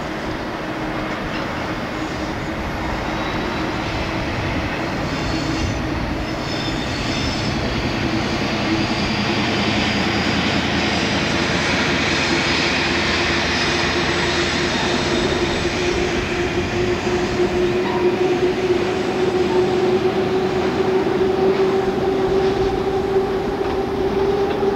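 Class 56 diesel locomotive, its Ruston-Paxman 16-cylinder engine working as it hauls a loaded cement tank train past, loudest about halfway through. The tank wagons then roll by with a steady wheel rumble and a ringing tone that grows louder near the end.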